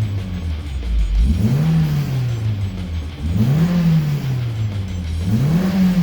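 Toyota MR2 SW20 with a Fujitsubo Power Getter aftermarket exhaust, its engine free-revved three times: each blip rises quickly and falls back slowly to idle, about two seconds apart.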